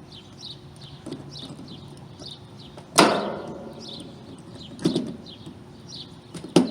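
Three sharp metallic knocks from tools and parts on the air conditioner's capacitor and wiring. The first, about three seconds in, is the loudest and rings on briefly. A small bird chirps repeatedly throughout.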